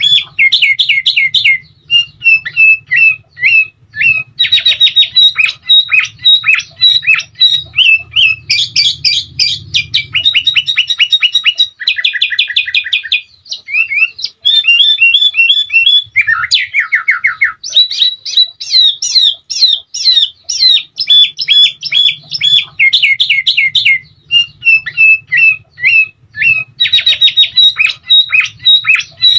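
Sooty-headed bulbuls singing: continuous runs of rapid, repeated chirps and bubbling trills with hardly a break, over a faint low hum.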